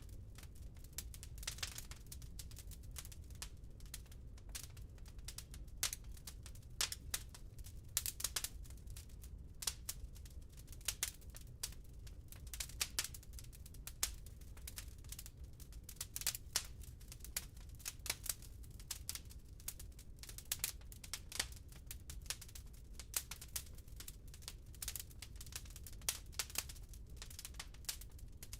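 Wood fire burning in a fireplace, crackling with irregular sharp pops and snaps, several a second, over a low steady rumble.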